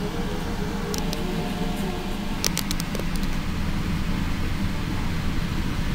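Steady low rumble of a diesel passenger train heard from inside a carriage, through the window glass, with a few sharp clicks about a second in and around the middle.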